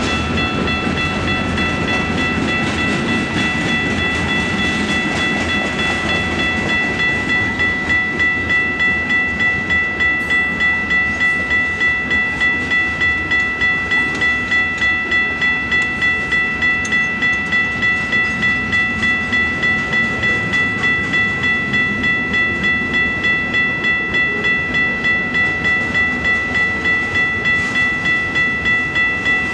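Freight train passing a grade crossing: two Union Pacific diesel locomotives go by with a low engine rumble that eases after the first several seconds, then freight cars roll past on the rails. A crossing bell rings steadily through it all, about two strikes a second.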